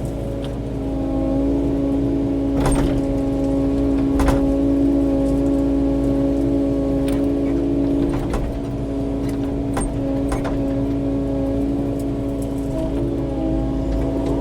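Kubota KX080-4 excavator's diesel engine running steadily, with a few sharp knocks scattered through as the machine works rock and brush.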